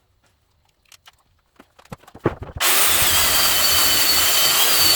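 A few handling clicks and knocks, then about two and a half seconds in an electric sander switches on and runs steadily with a high whine over its hiss, smoothing the wooden sides of a box.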